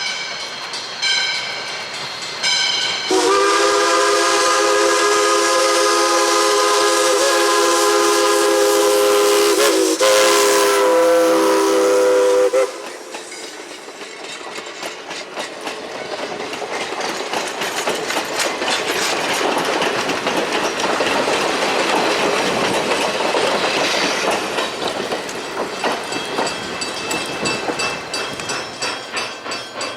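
Steam locomotive whistle blowing one long chord-like blast of about ten seconds that cuts off sharply, followed by the train running by, its rail and running-gear noise building to a peak and then easing off.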